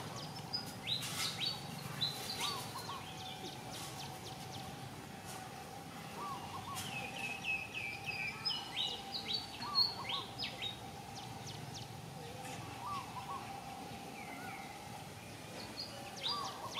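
Wild birds calling and chirping: a short call repeated every three to four seconds and clusters of quick, falling chirps, over a faint steady hum.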